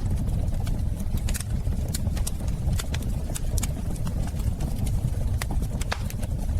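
Wood fire in a fireplace crackling: irregular sharp pops and snaps over a steady low rush of the flames.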